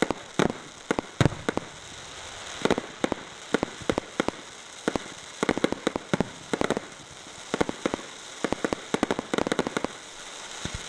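Fireworks going off in an irregular string of sharp bangs, with several rapid clusters of quick small reports.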